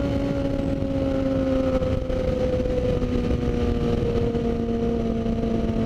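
Motorcycle engine running steadily, its note falling slowly as the bike slows down, with a constant rushing noise underneath.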